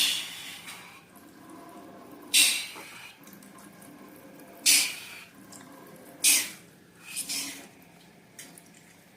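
Wet slime splatting and squelching in a series of short sharp splats about two seconds apart, the last one coming as a quick double.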